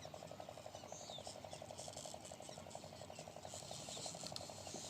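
Faint, steady, fast beat of about a dozen pulses a second, typical of a small single-cylinder diesel pump-set engine running at speed, with faint high chirps over it.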